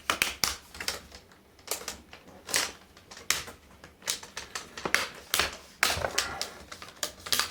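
Plastic screen bezel of an HP ProBook 4530s laptop being pried off the lid, its retaining clips snapping loose in a string of sharp, irregular clicks.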